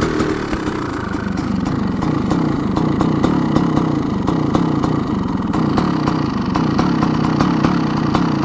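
Kawasaki KX500 single-cylinder 500cc two-stroke with a 1993 engine, idling very low through its FMF expansion chamber, with an uneven, popping beat.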